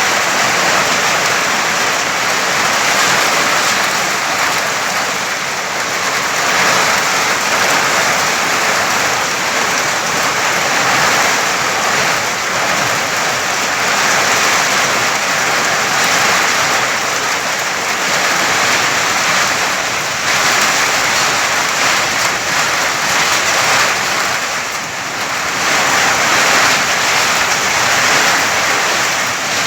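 Steady rushing hiss of a sandstorm, wind and blowing sand, swelling and easing every few seconds.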